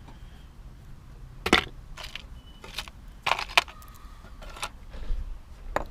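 Small metal costume-jewelry pieces clinking as they are handled and sorted: about seven sharp, irregularly spaced clinks, the loudest about one and a half seconds in.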